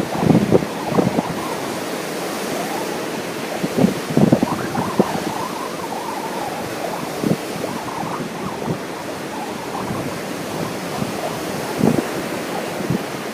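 Ocean surf washing steadily, with strong wind buffeting the microphone in irregular gusts, hardest just after the start, around four to five seconds in, and near the end.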